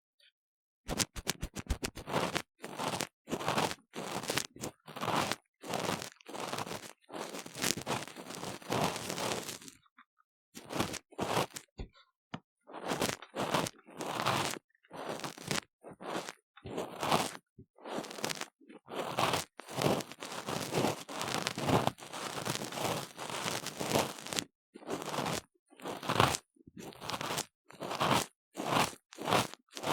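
Ear-cleaning tool scraping inside a silicone ear model, close to the microphone, in quick repeated short strokes, with a pause of about two seconds near the middle.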